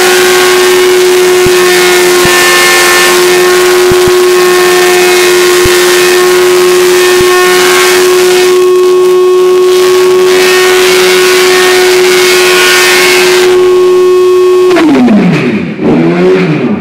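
Honda CBR1000 Fireblade inline-four engine held at a steady high rev during a burnout, over the hiss of the rear tyre spinning against the ground. Near the end the revs drop away, then rise and fall a few times.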